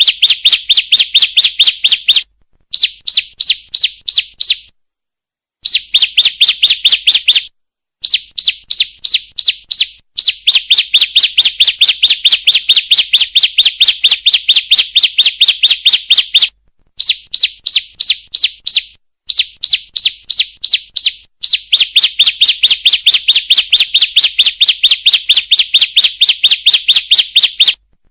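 Female bar-winged prinia (ciblek) calling: runs of rapid, sharp chirping notes at about six a second, broken by short pauses, a lure call that draws in males.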